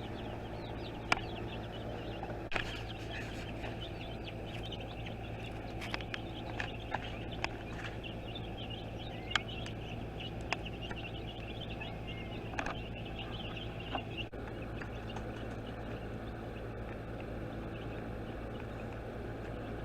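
A brood of baby chicks peeping, many short high chirps overlapping without pause. A steady low hum runs beneath, and a few sharp clicks or taps stand out above it.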